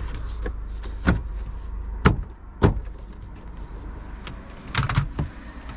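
A few sharp clicks and knocks of parts and tools being handled during reassembly of a car's ignition switch and steering column trim: three single clicks about a second apart, then a short cluster of knocks near the end, over a steady low hum.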